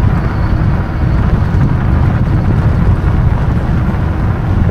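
Steady wind rush buffeting the microphone of a moving e-bike, a loud low rumble without breaks.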